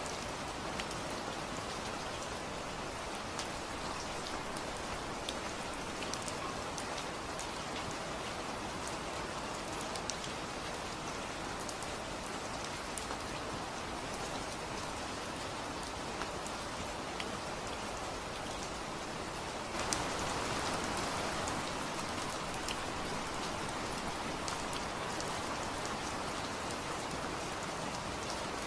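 Steady rain falling, with scattered sharp drop ticks over an even hiss. About two-thirds of the way in it steps up suddenly, becoming louder and fuller.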